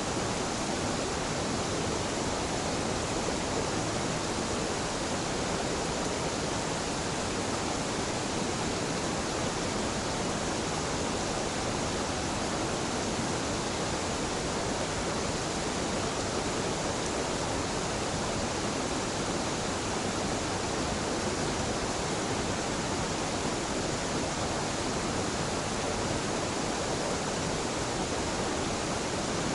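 A gentle mountain waterfall where two streams meet: falling water rushing steadily and evenly, without any change or let-up.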